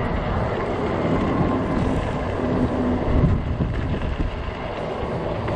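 Gusty wind buffeting the microphone of a rider's camera, a continuous low rumbling noise with no break.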